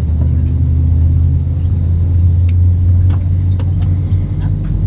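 Steady low engine rumble inside the cabin of an Airbus A320neo airliner, with a few faint clicks over it.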